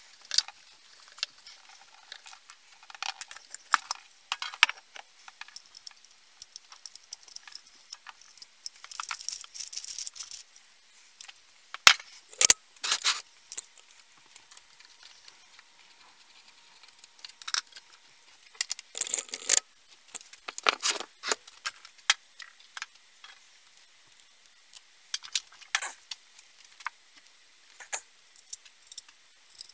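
Hand tools clinking, tapping and scraping on small metal chainsaw parts, in scattered irregular clicks. A short scraping stretch comes about nine seconds in, and two sharp knocks about twelve seconds in.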